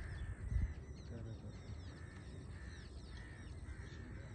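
Birds calling repeatedly, short chirps and caws overlapping throughout, over a low outdoor rumble, with a couple of low thumps in the first second.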